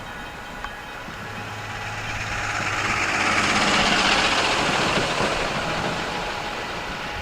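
A heavy vehicle going by: a low engine hum under a rushing noise that swells to its loudest about four seconds in, then fades.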